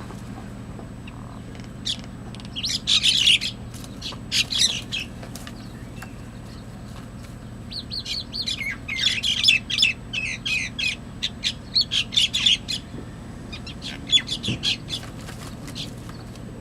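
Small birds fighting, giving bursts of rapid, harsh chirps in several flurries. A steady low hum runs underneath.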